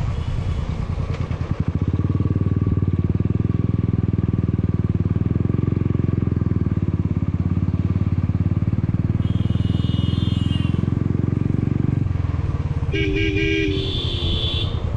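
Motorcycle engine running steadily under way, with a fast even pulse. A horn honks twice: faintly about nine seconds in, and louder for about a second near the end.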